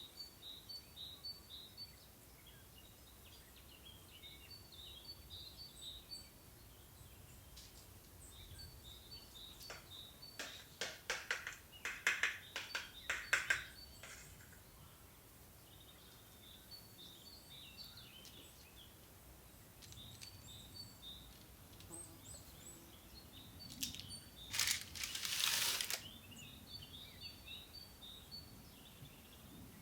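Small birds chirping in short repeated calls, with a cluster of sharp clicks and knocks about ten to fourteen seconds in and a brief rushing noise about twenty-five seconds in.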